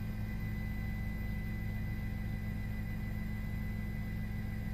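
A steady low hum with faint fixed tones above it, unchanging throughout.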